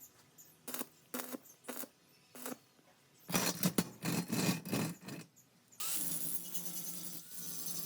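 Hand work with tools and metal parts: a few light taps, then a couple of seconds of scraping and knocking, then a steady hiss that starts about six seconds in.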